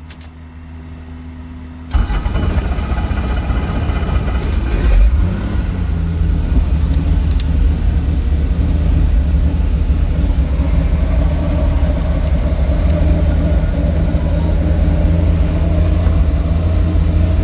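Helicopter engine starting up: a faint steady hum, then about two seconds in a sudden jump to loud running with a high whine for a few seconds, settling into a steady loud run as it warms up.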